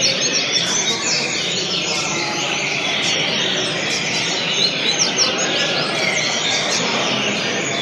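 Double-collared seedeater (coleira) singing a continuous run of quick chirping, sliding notes.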